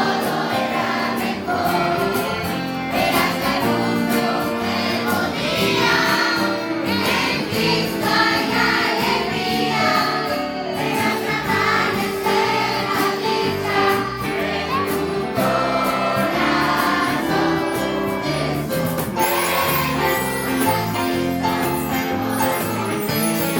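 Children's choir singing a lively church song with a band behind it: bass notes and a steady percussive beat.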